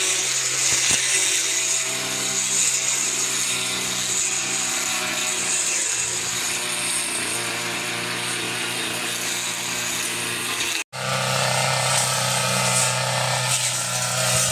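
A small motor running steadily. About eleven seconds in, the sound cuts out for an instant and comes back as a lower, steadier hum.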